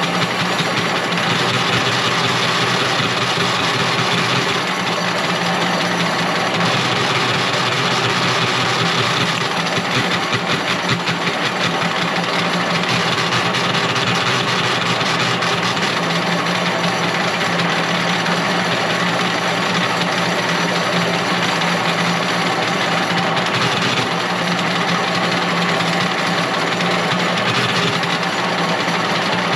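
A motor-driven machine running steadily with an even, unchanging drone.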